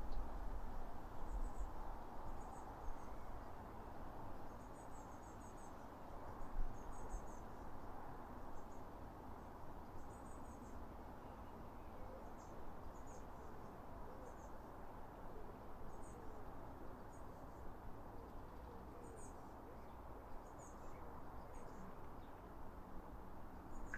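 Small birds giving very high, thin chirps in short quick clusters every second or two, over a steady low background hiss and rumble.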